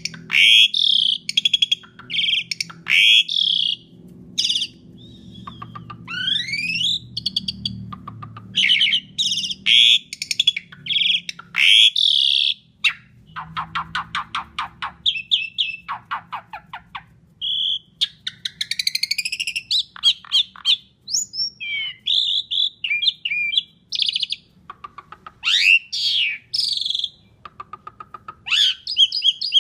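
Asian pied starling singing a loud, varied song: whistled notes, rising glides and harsh chattering phrases with short gaps between them, including a fast stuttering run of notes about halfway through.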